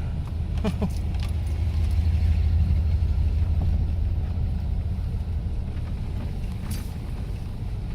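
Jeep Wrangler JK running slowly over a bumpy off-road trail, heard from inside the cabin: a low rumble that swells about two seconds in and then eases, with jangling rattles and a couple of knocks as the vehicle bounces.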